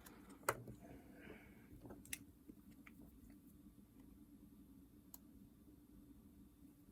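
Near silence with low room hum, broken by a few faint clicks and taps from small parts being handled, the loudest about half a second in.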